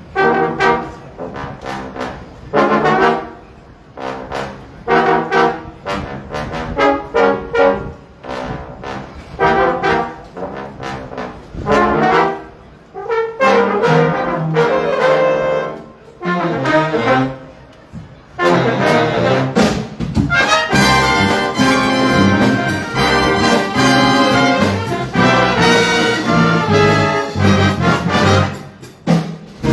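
Jazz big band with trumpets and trombones playing live. Short, punchy ensemble hits separated by brief gaps come first, then the full band plays continuously from about 18 seconds in.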